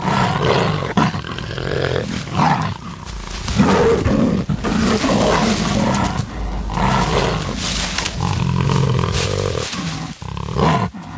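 Jaguars roaring at each other, loud and nearly unbroken, with brief dips between roars.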